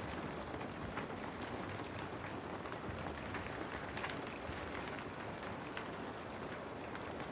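Steady rain falling, a dense even hiss with scattered sharper drop taps on a surface.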